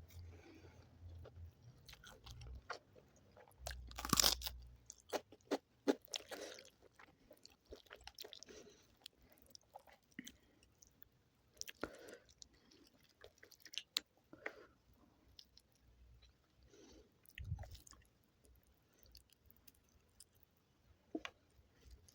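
Close-miked chewing and biting of chicken curry with rice: irregular wet mouth clicks and smacks, with the loudest bite about four seconds in.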